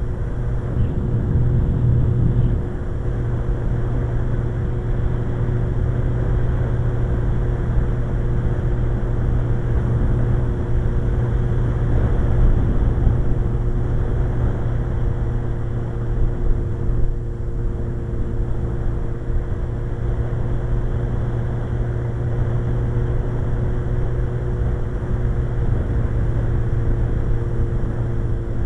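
Suzuki GSX-R1100's inline-four engine running at a steady cruise. The engine note holds one pitch throughout, under a steady rush of wind and road noise.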